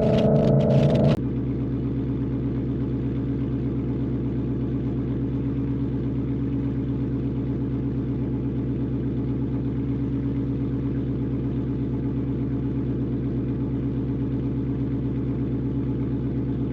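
Supercharged 5.0 Coyote V8 of a Ford Mustang Dark Horse with a Corsa Xtreme catback exhaust, idling steadily with an even low rumble. A louder, brighter sound cuts off abruptly about a second in, and the idle carries on from there.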